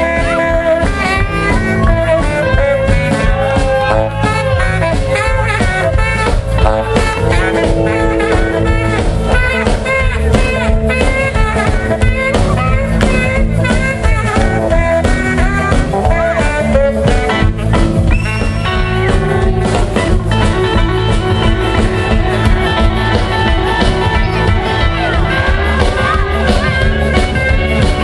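Live band playing blues rock: a melodic lead line over bass, drums and guitar.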